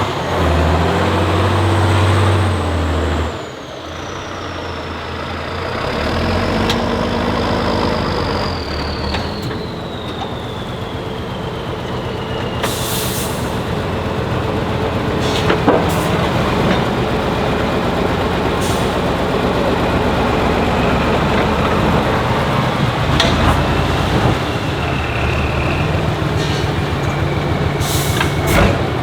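Heavy off-road trial truck's diesel engine running and revving, with a high whine slowly falling in pitch during the first half. Short hisses of air brakes come about halfway through and again near the end.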